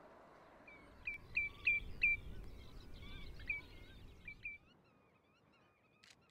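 Meadow birds calling: a quick series of short, clear whistled calls about a second in, then softer calls, with faint wandering whistles near the end.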